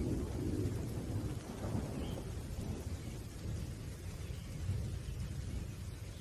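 Low rumble of distant thunder, slowly dying away, with faint rain in the background.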